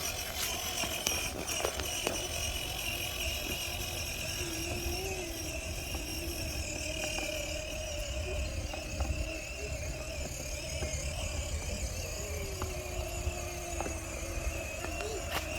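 Steady motor hum over a low rumble.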